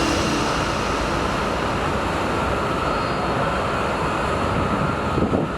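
Steady rushing mechanical noise with a faint hum, as the tail of a music passage dies away at the start.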